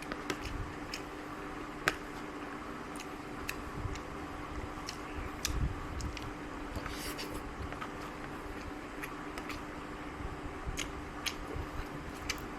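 Eating sounds: scattered light clicks and taps of food being taken from a plate, with quiet chewing, over a steady low hum.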